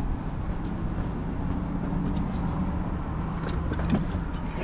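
A few light clicks and clinks of hand tools being handled near the end, over a steady low background rumble.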